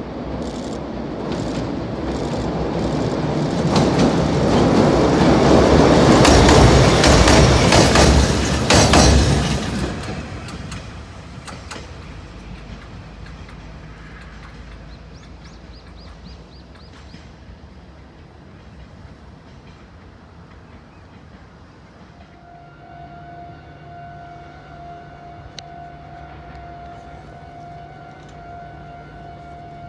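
A diesel-hauled freight train passes close by, its wheels clicking over the rail joints. It grows louder, peaks about eight seconds in and then falls away quickly. Near the end a quieter steady drone with a distinct tone sets in.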